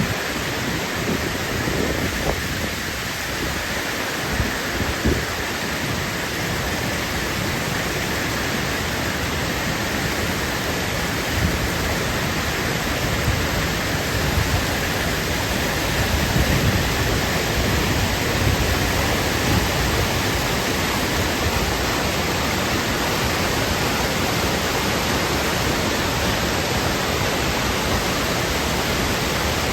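Steady rushing of river water, an even, unbroken roar of flowing water.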